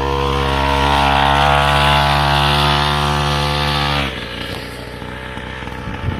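Small motocross bike engine running at high, steady revs for about four seconds, then the note drops away abruptly as the throttle comes off, leaving a quieter, rougher engine sound.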